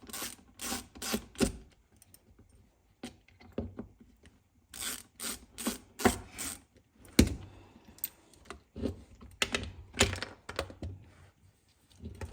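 Irregular metallic clicks and clinks of hand tools and small hardware being worked on a chainsaw, in short clusters with pauses between, the sharpest click a little past the middle.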